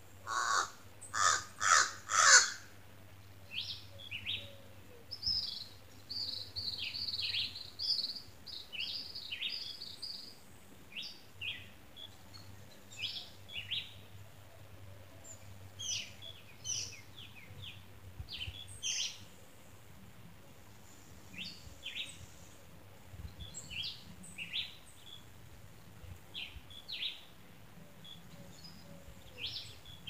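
Birds calling: four loud, harsh calls in quick succession in the first couple of seconds, then a long run of short, high chirps and varied song phrases with brief gaps.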